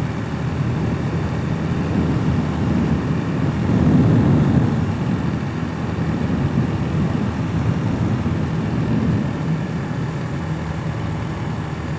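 Single-cylinder engine of a Hawk 250 enduro motorcycle running under way, mixed with wind noise on the helmet-mounted camera's microphone, swelling briefly about four seconds in.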